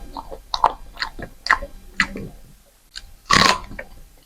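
Close-miked chewing and mouth sounds of someone eating rice, dal and chicken: a string of wet smacks and clicks, with a louder, rougher sound a bit over three seconds in.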